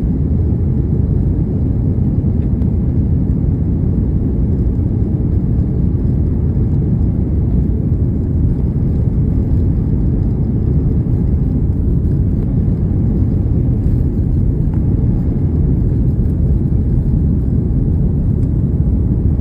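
Steady, loud low rumble of an airliner's engines and rushing air heard from inside the passenger cabin during takeoff.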